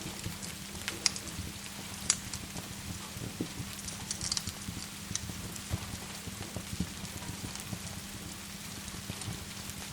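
Steady rain with a fireplace's wood fire giving a few sharp crackles, a cluster of them around the middle.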